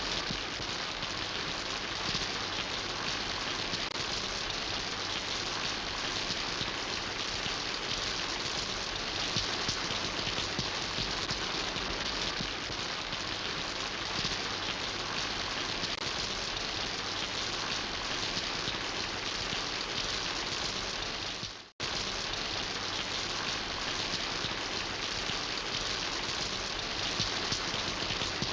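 Steady rain falling and pattering on surfaces, an even, dense hiss. About three quarters of the way through it fades out for an instant and cuts straight back in, like a splice in a looped recording.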